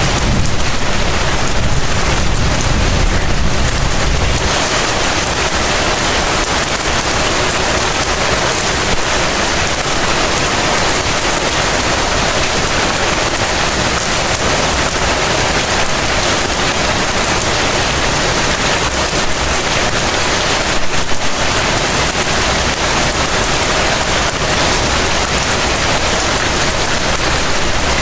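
Heavy rain falling in a steady, even hiss. A low rumble sits under it for the first four or so seconds.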